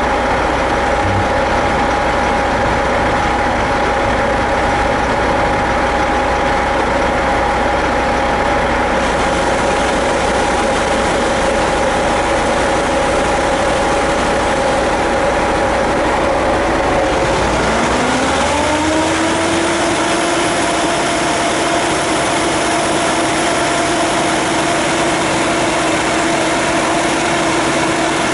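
Airport fire truck's engine and pump running steadily at a constant pitch over a steady rushing noise. About 18 s in the pitch dips, then climbs smoothly as the engine revs up, and holds at the higher speed with a faint high whine on top.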